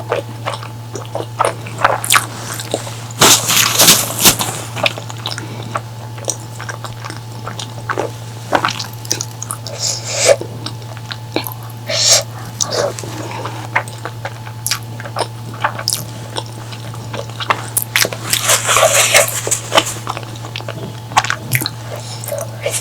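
Close-miked eating sounds: irregular wet chewing, lip smacks and mouth clicks from a person eating curry, busiest about three seconds in and again near the end. A steady low hum runs underneath.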